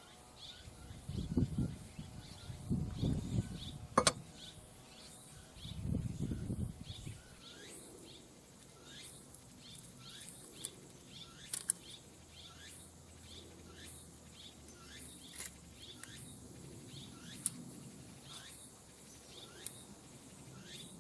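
Small birds chirping repeatedly in short, high, falling calls, with a few dull thuds and one sharp click in the first seven seconds.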